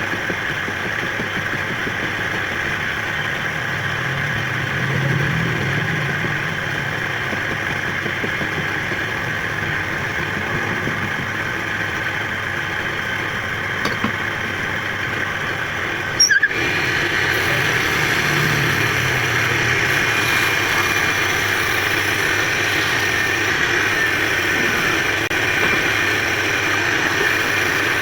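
A workshop woodturning lathe's motor running steadily. About 16 seconds in there is a sudden short break, and then it runs a little louder.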